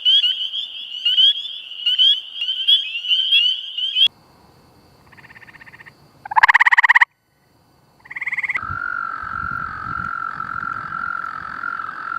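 Frog calls from several recordings in turn: first rapid, repeated high chirps, then a few short, loud pulsed calls, and from about eight and a half seconds in a steady, high trill.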